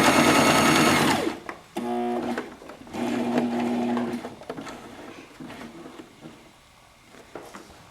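Electric sewing machine stitching a seam: a fast run that slows and stops about a second in, then two short, slower bursts of stitching as it inches up to the stopping point at the notch.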